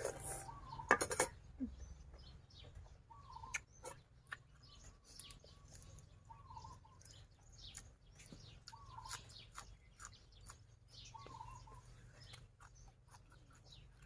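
Birds calling: one short call repeats every two to three seconds among quicker high chirps. A couple of sharp clicks come about a second in.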